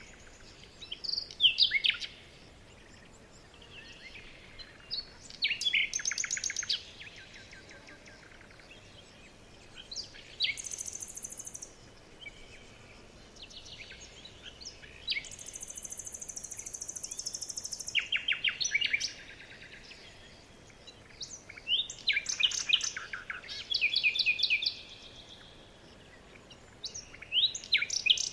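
Several songbirds singing in turn, with short phrases of rapid repeated chirping notes every few seconds. Twice a high, buzzy trill cuts in, the second lasting about three seconds.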